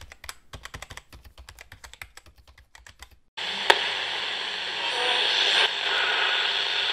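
Quick, light computer-keyboard typing clicks for about three seconds. These cut off abruptly into steady static hiss from an Admiral AM/FM tabletop radio whose knob is being turned, with a sharp click just after the hiss starts; the hiss grows slowly louder.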